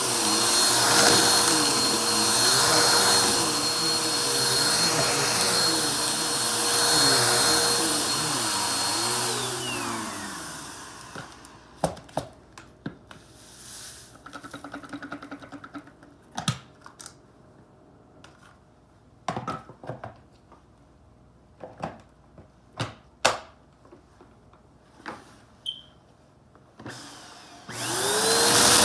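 Vacuum cleaner motor running steadily, then switched off about a third of the way in and winding down with a falling whine. Scattered clicks and knocks of handling follow. Near the end the motor is switched back on and spins up to full speed with a rising whine.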